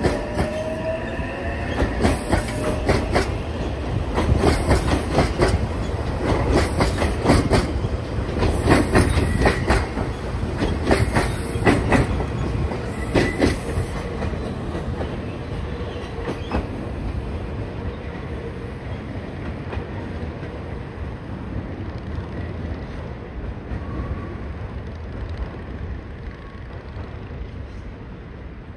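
Meitetsu 2200-series electric train departing and accelerating away: its wheels clatter over rail joints and points in quick clicks through the first half, then the sound fades steadily as the train recedes. A faint rising motor whine at the very start.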